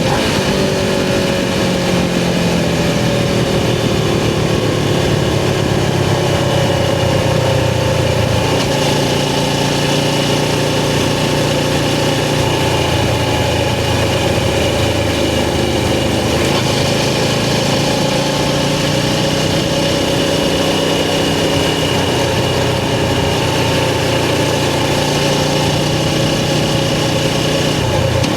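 Suzuki GS500's air-cooled parallel-twin engine running while the motorcycle is ridden. The engine note eases down in pitch over the first several seconds, then holds fairly steady, changing slightly twice.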